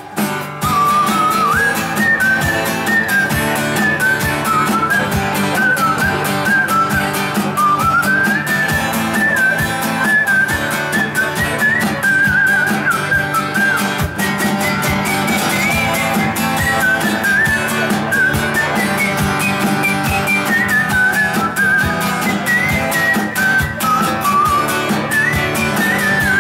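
Live instrumental break: a melody whistled over steadily strummed acoustic guitar.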